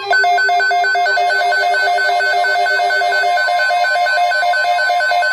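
Electronic weather alert tone: loud, rapid two-pitch beeping at about five beeps a second, starting abruptly. It signals an incoming weather alert; a lower held tone from the preceding sound fades out about three seconds in.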